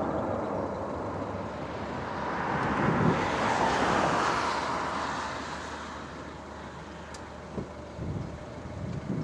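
Aircraft passing overhead: a rushing engine noise swells to a peak about three to four seconds in, then fades away.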